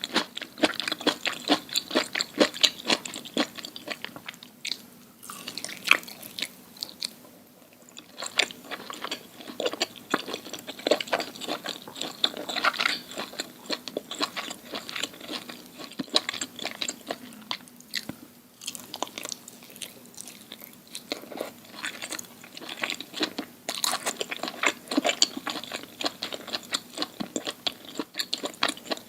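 Close-miked crunchy chewing and biting: dense runs of sharp crackles from food being bitten and chewed, with a couple of brief lulls.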